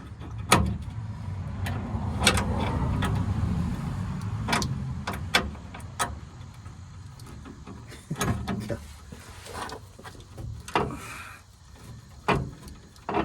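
Scattered metallic clanks and knocks of hand tools, a ratchet and wrench, working on the underside of a pickup truck, with a low rumble for a few seconds near the start.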